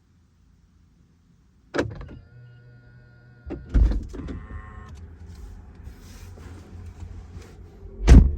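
Car door being worked on a BMW M4 Competition coupe. A sharp click about two seconds in is followed by a thin electric whine, like a frameless window motor. A thud comes about halfway, and a loud door shutting near the end.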